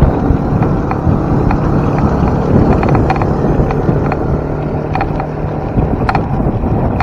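Wind rushing over the microphone and road rumble while riding a bicycle. A steady low engine-like hum rises out of the rumble from about two and a half seconds in and fades near six seconds.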